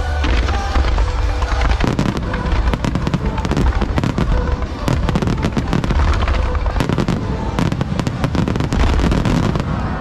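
Large fireworks barrage: many shells bursting in quick succession, dense crackling over a continuous deep booming, the crackle thickening about two seconds in. Music plays underneath.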